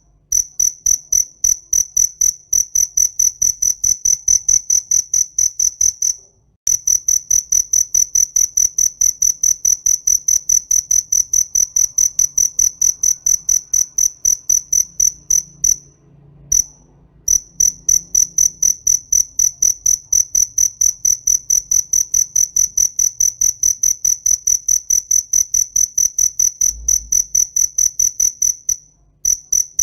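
A cricket chirping close to the microphone: a loud, high-pitched chirp repeated evenly about four times a second, stopping briefly twice and once more near the end.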